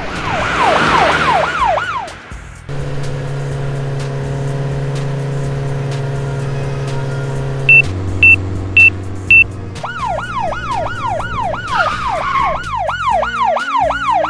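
Cartoon police car siren sounding as quick, repeated falling wails at the start and again from about ten seconds in. In between there is a steady low hum, and four short high beeps sound as the fuel gauge shows empty, a low-fuel warning.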